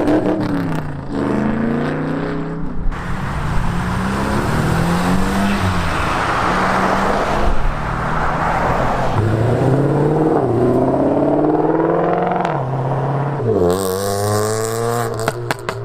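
Cars accelerating away one after another, their engine notes rising and then dropping several times as they pull off and change gear.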